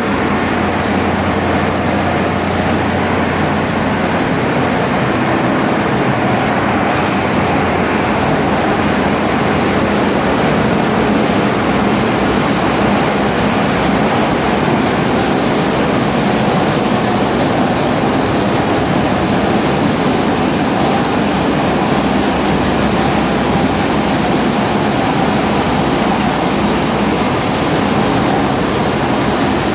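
Loud, steady drone of a bulk carrier's engine-room machinery: diesel engines running, with a constant low hum under a dense wash of mechanical noise.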